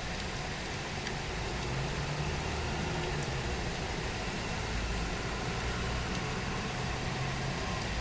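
Steady rain falling. A low steady hum joins it about two seconds in and eases off near the end.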